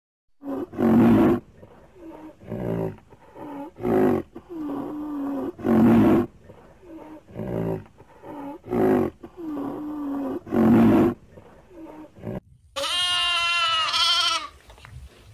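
Rhinoceros huffing loudly: heavy breathy blasts about every one to two seconds, with low moaning sounds between them. Near the end it gives way to a goat bleating, one long wavering call.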